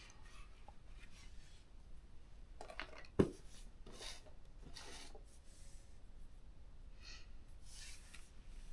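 Faint rubbing and scraping from small laptop parts and tools being handled, with one sharp click about three seconds in.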